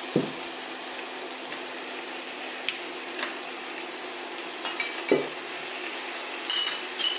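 Pork and vegetable stir-fry sizzling steadily in a frying pan, with a faint steady low hum under it. Two sharp knocks, one just after the start and one about five seconds in.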